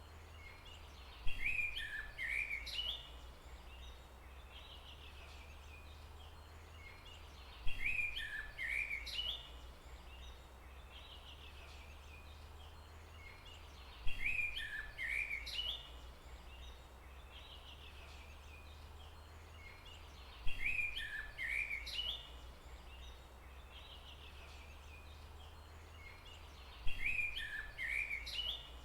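A bird's call, a sharp start followed by a quick run of falling chirped notes lasting about two seconds, repeating five times at even intervals of about six and a half seconds over a steady low hum.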